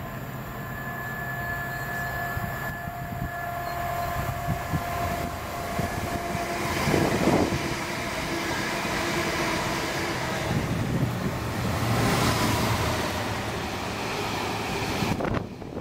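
An electric multiple unit approaches and passes with a steady motor whine. Then a Class 66 diesel-hauled train of box wagons goes by close at hand with a loud rumble and rattle of wheels on rail.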